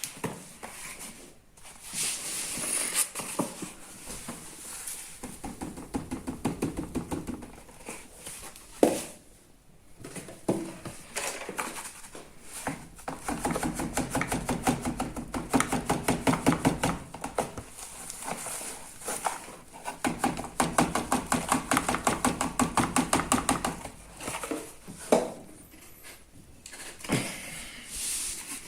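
Washing machine drum turning in spells of a few seconds during the wash, with a low rumble and a fast, even rattle while it turns, pausing between spells.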